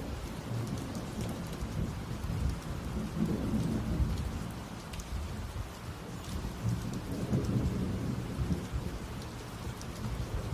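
Heavy rain pouring steadily, drops pattering on surfaces, under low rolling thunder that swells about a third of the way in and again past the middle.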